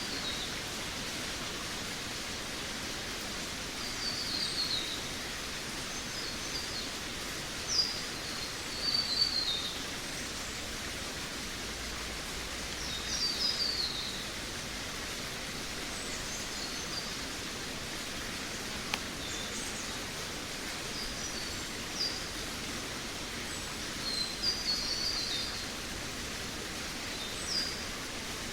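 Forest ambience: songbirds chirping in short, high, downward-sliding phrases every few seconds over a steady rushing hiss.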